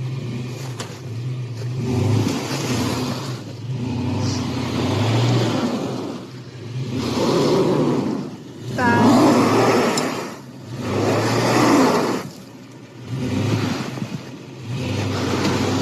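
A truck on the move: a steady low engine hum under road noise that swells and fades every couple of seconds, with a brief squeal about nine seconds in.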